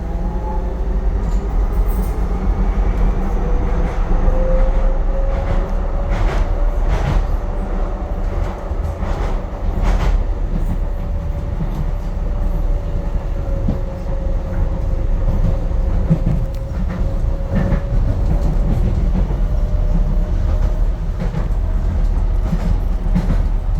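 Docklands Light Railway train running, heard from inside the carriage: a steady low rumble with a whine that drifts slightly in pitch, and a run of sharp clicks from the wheels over rail joints or points a few seconds in.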